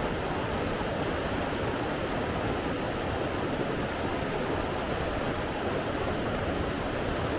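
Steady, even rush of flowing water that holds at one level throughout.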